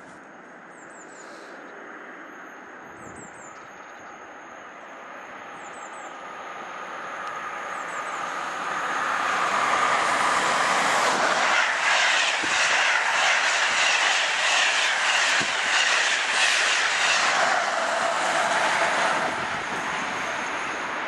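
A locomotive-hauled electric regional passenger train approaches and passes at speed. It grows steadily louder, then for several seconds gives a loud rushing run with rapid, regular wheel clicks over rail joints, and fades near the end as it draws away.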